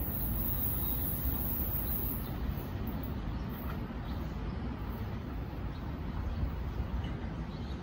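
NJ Transit ALP-45DP locomotive pushing a multilevel train away down the track: a low, steady rumble that sags only slightly as it goes.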